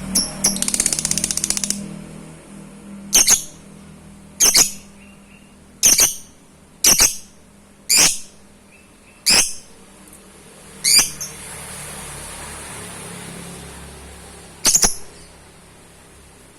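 Pet lovebird calling: a fast buzzy chatter at first, then short, shrill chirps about once a second, a gap of a few seconds, and one more chirp near the end.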